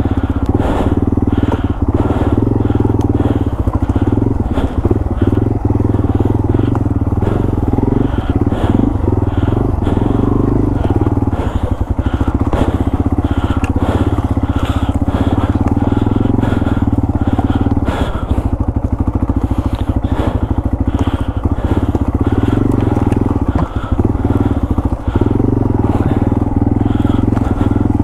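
Yamaha TW200's single-cylinder four-stroke engine running steadily as the motorcycle is ridden off-trail through brush, with many crackles and knocks from branches and vines against the bike.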